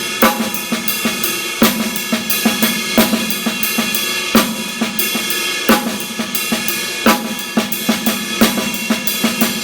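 Drum kit playing a rock-funk groove: a steady, even cymbal wash with snare backbeats about every second and a third, and quiet snare ghost notes filling the offbeats between them.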